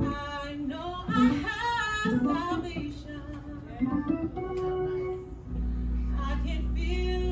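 Church singing with instrumental accompaniment; a low sustained chord comes in about five and a half seconds in and holds under the voices.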